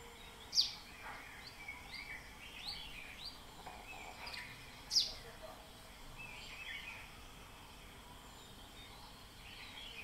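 Small birds chirping over faint outdoor ambience: short, high chirps, with two sharp, louder calls, one about half a second in and one about five seconds in.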